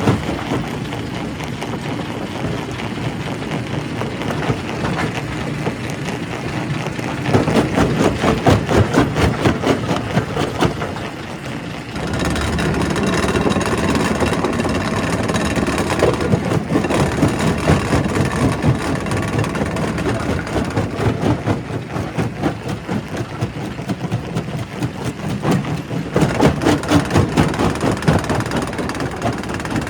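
Quarry primary rock crusher working: a steady heavy engine drone under dense, irregular knocking and grinding of stone being broken. The sound changes abruptly about twelve seconds in.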